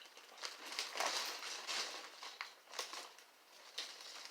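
Crunching of veggie crisps (potato, tomato and spinach chips): an irregular run of dry, crackly crunches, densest about one to two seconds in.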